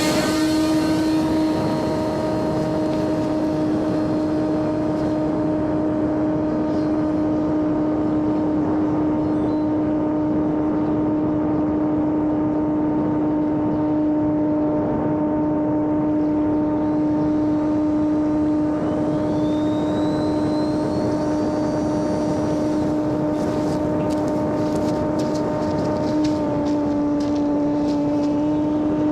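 Homemade electric RC airplane's brushless motor and propeller running at steady throttle in flight, a constant buzzing drone that dips slightly in pitch near the end.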